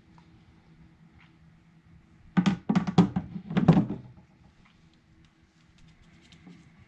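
A quick cluster of hard knocks and thunks, about a second and a half long, over a faint steady hum.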